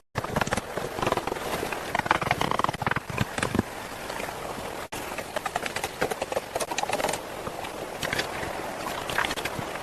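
Steady rush of river water with irregular knocks and clatters, broken by a short drop-out about five seconds in.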